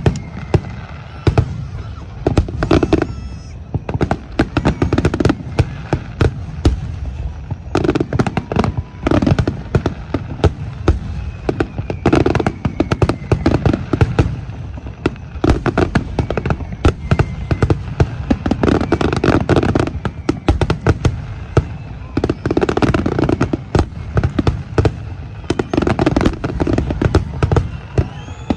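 A fireworks finale barrage: shells bursting in rapid, overlapping succession, many sharp bangs a second with no let-up.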